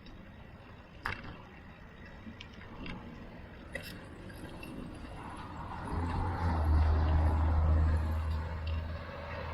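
Road traffic heard from a moving bicycle, with two sharp clicks or rattles about one and four seconds in. A louder low rumble swells from about six seconds in and eases near the end.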